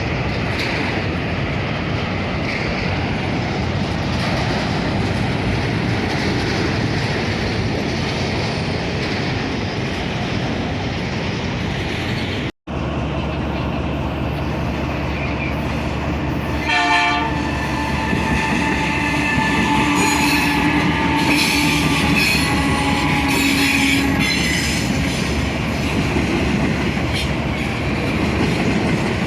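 Freight train passing close by, with a steady rumble of wheels on rail. After a break partway through, a short locomotive horn blast sounds. It is followed by several seconds of high wheel squeal and steady tones as the train keeps rolling.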